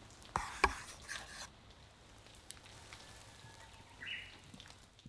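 Rain dripping and pattering, with close drops landing in sharp ticks over a faint hiss, several loud ones in the first second and a half. The sound cuts off suddenly at the end.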